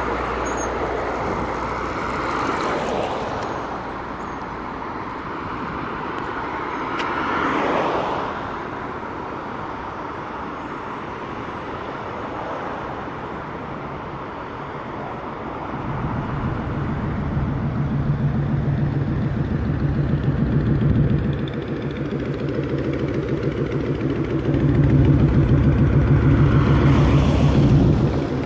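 Traffic on a rain-wet city avenue: vehicles pass with a swell of tyre hiss twice early on. From about halfway through, a heavy engine runs close by with a low rumble that grows louder near the end.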